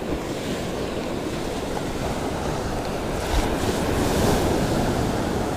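Ocean surf breaking and washing up the beach, with wind rumbling on the microphone; a wave swells loudest about three to four seconds in.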